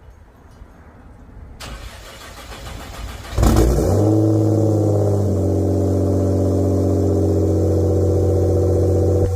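Nissan GT-R R35's twin-turbo V6, straight-piped through a 4-inch exhaust, cold starting: a rising sound for a couple of seconds, then the engine fires about three and a half seconds in with a loud flare and settles into a steady, deep cold-start high idle.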